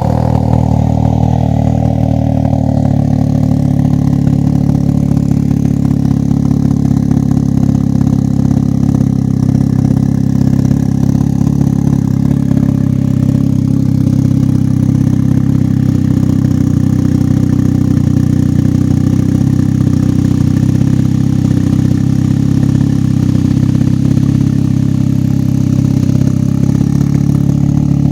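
Can-Am Ryker engine idling through a newly fitted Brannon King aftermarket muffler just after a cold first start, loud and deep-toned. It settles from a slightly busier note into a steady idle within the first few seconds.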